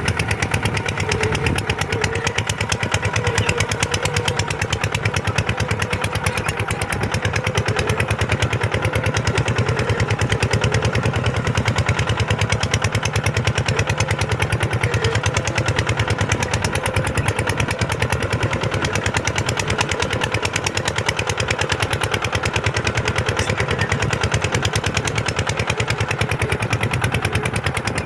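Kubota tractor's diesel engine running steadily under a rapid, even firing beat.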